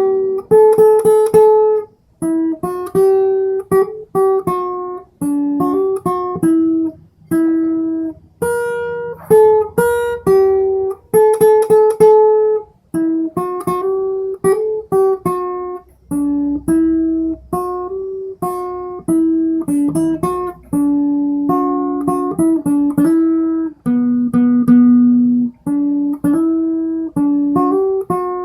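Acoustic guitar picking out a melody in single plucked notes, each ringing and fading, in quick phrases.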